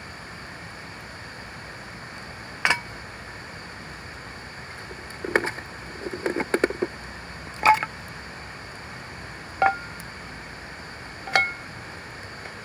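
Hard objects clinking together about six times, each strike with a short ring and a quick flurry of small clinks in the middle, over a steady background hiss.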